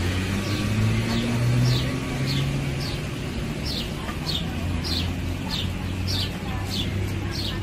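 A bird calling over and over: short, high, falling chirps a little under two a second, over a steady low hum.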